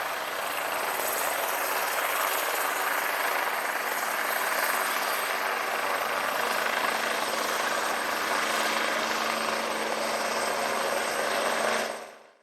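Eurocopter EC-145 helicopter running steadily, the rush of its rotor and twin Turbomeca Arriel turboshaft engines with a steady high whine. The sound fades out quickly near the end.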